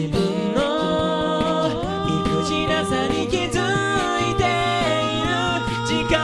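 An a cappella group singing layered chords without clear lyrics over a sung bass line, with vocal percussion keeping a steady beat.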